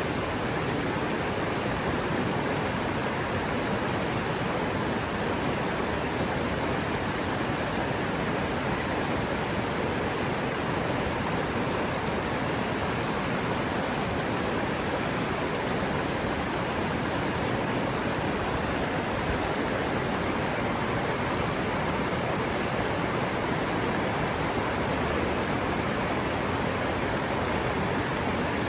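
Forest river water running in a steady, even rush.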